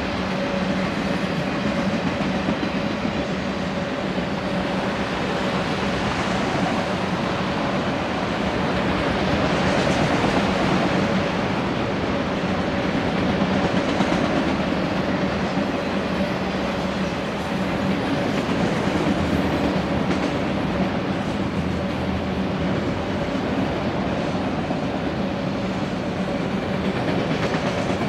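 Autorack freight cars rolling past on the rails: a steady, loud noise of steel wheels on track with a faint steady hum, unbroken throughout.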